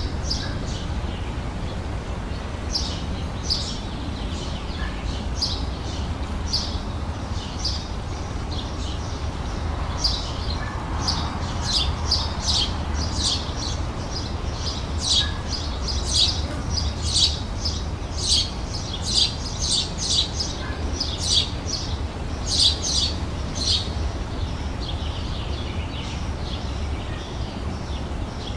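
Songbirds chirping and singing outdoors in short repeated high notes, sparse at first and busier from about a third of the way in, over a steady low background rumble.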